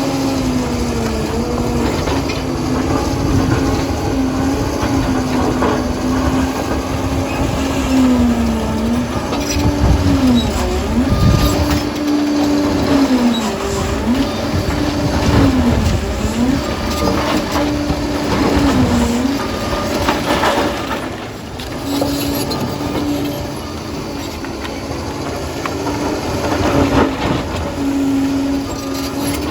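Liebherr 746 crawler dozer working: its diesel engine runs steadily, then lugs down and recovers several times in the middle stretch as the blade takes load. Under it are the clatter of the steel tracks and the low rumble of material being pushed.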